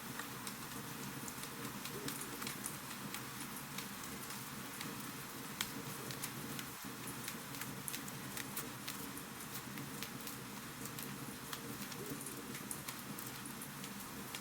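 Wood fire crackling in a fireplace: many small, sharp pops and snaps over a steady hiss, with one louder pop about five and a half seconds in.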